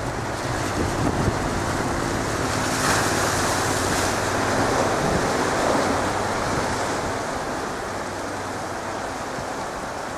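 Jet engine noise from a Boeing 777-200 airliner landing, a steady rumble that swells about three seconds in and then slowly fades.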